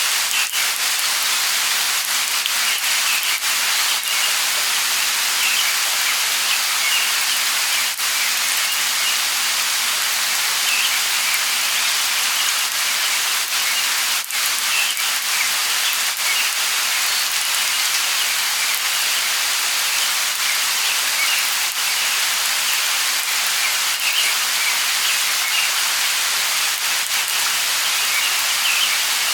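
Steady light rain falling, with scattered drop ticks and faint short bird chirps in the background.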